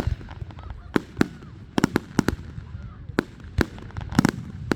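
Fireworks shells exploding in a rapid, irregular run of sharp bangs, with a tight cluster about four seconds in.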